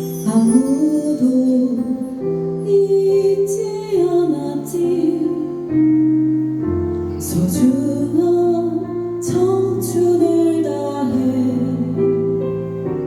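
Live singing of a slow song over piano accompaniment, the melody gliding over sustained chords.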